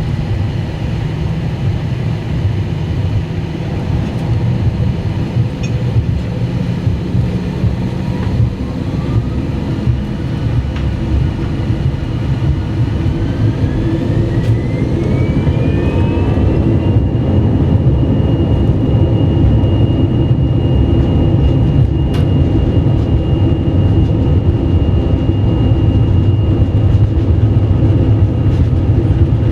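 Airbus A321 cabin noise with the jet engines spooling up: a whine climbs steadily in pitch from about eight seconds in, levels off at a high steady pitch after about seventeen seconds, and the low rumble grows louder as the engines reach takeoff thrust.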